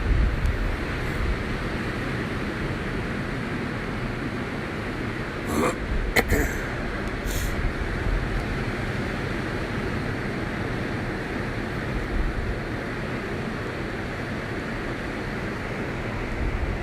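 Steady wind and ocean surf noise, with wind rumbling on the microphone. A few brief sharp noises come about five to seven seconds in.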